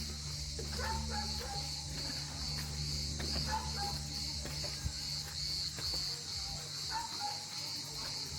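Insects chirping in a steady pulse, about two to three chirps a second, over a low steady hum, with a few short higher calls now and then.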